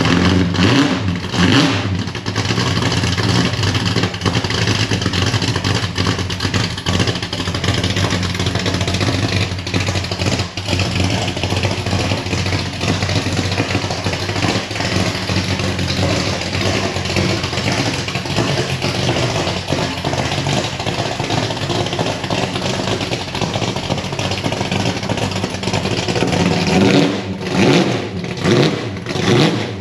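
Ford XB Falcon hardtop's engine running steadily at idle, revved briefly a couple of times near the start and in a few quick blips near the end.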